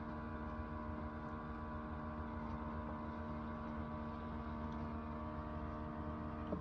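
Cuisinart Barista Bar coffee maker's motor running with a steady, many-toned hum over a low rumble, then shutting off with a small click near the end.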